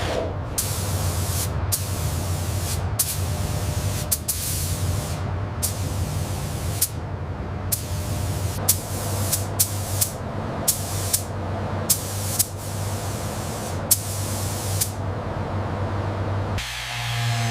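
Steady hiss of compressed air spraying, as from a spray gun or blaster, over a constant low hum, broken by frequent abrupt cuts and clicks.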